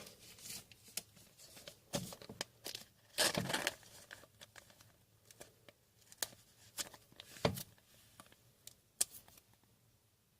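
Trading cards and plastic or foil packaging being handled: crinkling and rustling with a longer tearing sound about three seconds in, then scattered soft clicks and rustles that die away near the end.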